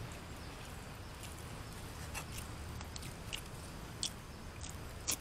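A man chewing and eating food close to the microphone: soft mouth noises and a few short scattered clicks, with a quick run of louder clicks at the very end, over a steady low background rumble.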